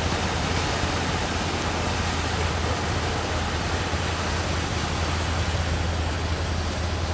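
Steady rushing roar of heavy surf breaking at a river mouth, constant with no single crashes standing out.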